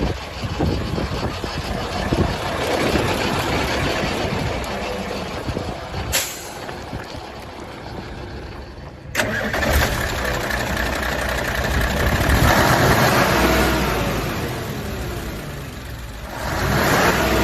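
The V8 diesel engine of a 1991 Mitsubishi Fuso Super Great 8DC11 dump truck running. There is a sharp click about six seconds in and a sudden louder passage from about nine seconds in, where the engine speed rises and falls.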